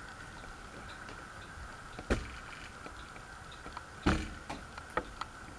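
Design House Manhattan ceiling fan running with a steady high hum, with a few sharp knocks, the loudest about two and four seconds in.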